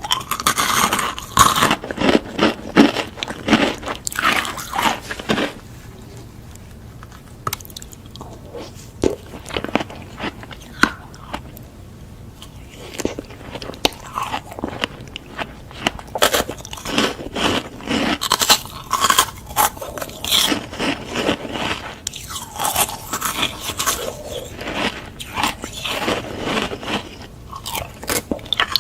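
Close-up eating sounds: crunchy food being bitten and chewed, in runs of sharp crunches, with a quieter stretch of slow chewing in the middle.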